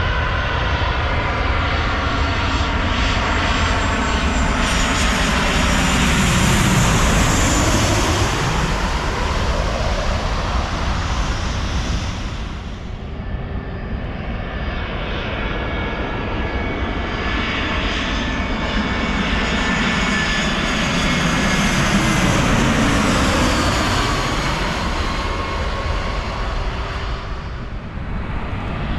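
Jet airliners passing low overhead on landing approach, two passes about fifteen seconds apart. Each swells up and fades with the engine whine sliding down in pitch as it goes by.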